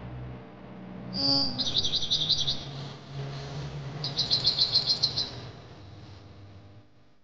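A bird singing: a short call about a second in, then two fast, high trills, each lasting about a second.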